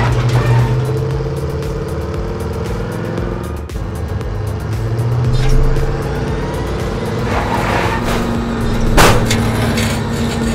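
Dubbed car engine sound effect running steadily, with a sharp crash about nine seconds in as one toy car rams another.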